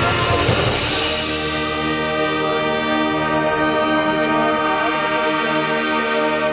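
High school marching band playing, the brass holding a loud sustained chord that cuts off right at the end.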